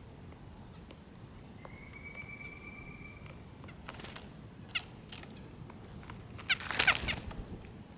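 Small songbirds at a seed feeder: scattered light clicks and taps, and a steady thin whistle for about a second and a half near two seconds in. Short chirps fall in pitch about five seconds in, then a quick burst of sharp falling chirps comes near the end, the loudest sound.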